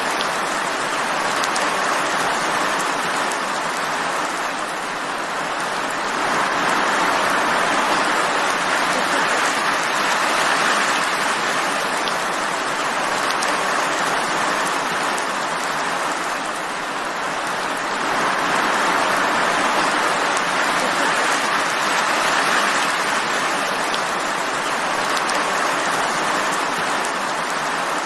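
Steady heavy rain, an even hiss that swells a little louder and eases off again twice.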